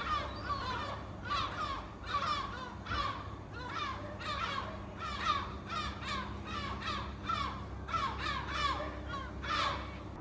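A flock of seagulls calling, many short falling calls overlapping, several each second.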